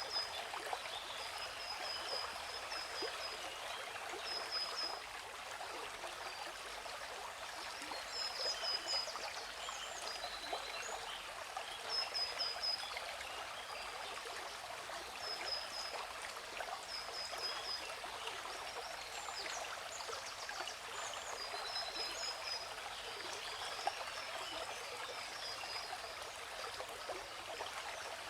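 Waterfall water rushing steadily, with small birds chirping over it in short, quick runs of high repeated notes every second or two.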